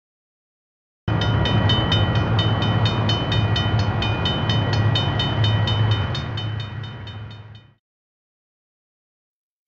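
Train sound: a steady low rumble with a quick, even clatter of about four to five beats a second and a held high tone. It starts abruptly about a second in and fades out a couple of seconds before the end.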